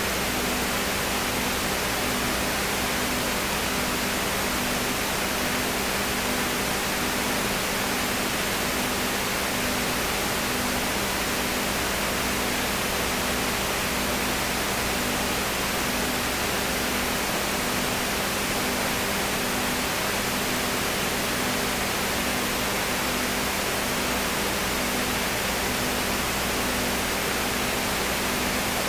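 Steady hiss of soundtrack noise with a low hum that pulses gently about once a second.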